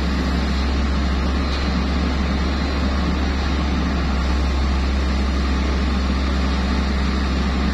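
Diesel engine of a HENGTE HT215W wheeled excavator running steadily as a low, even drone, with no revving or change in pace.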